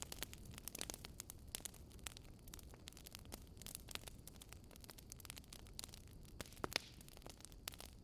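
Wood campfire crackling: irregular small snaps and a few louder pops over a faint, steady low rush.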